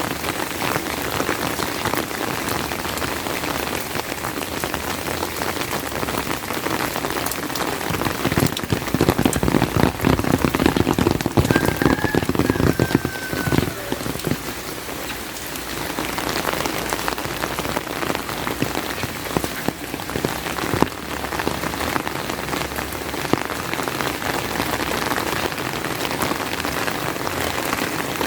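Steady rain falling, a dense patter of drops. It grows heavier and louder for several seconds about a third of the way in, then eases back.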